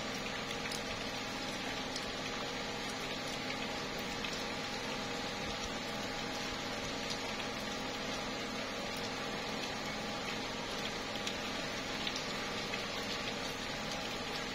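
Slow rain falling on tree leaves: a steady hiss with scattered sharp drip ticks.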